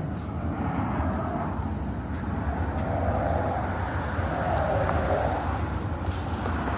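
An aircraft making a flyover, heard as a steady rushing drone and rumble that swells and eases slightly.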